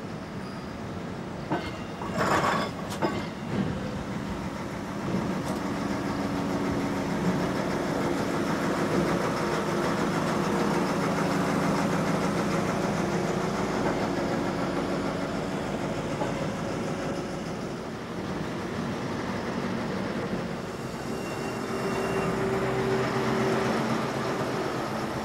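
A Danish IC3 diesel multiple unit running slowly past, its diesel engines humming steadily over wheel and rail noise. A few sharp clanks come about two seconds in.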